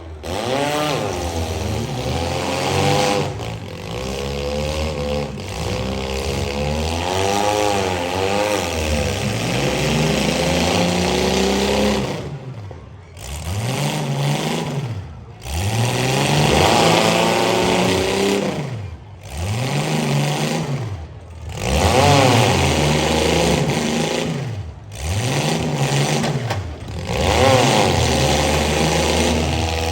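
Demolition derby compact and midsize car engines revving up and down over and over, the pitch climbing and dropping every couple of seconds, with a few brief sudden gaps.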